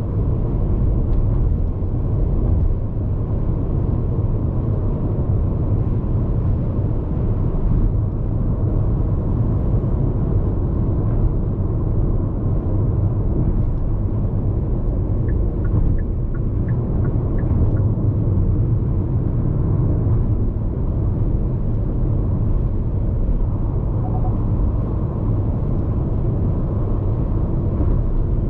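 Tyre road noise and wind noise heard inside the cabin of a Hyundai IONIQ 5 AWD electric car cruising on an expressway. It is a steady low rumble with no engine note.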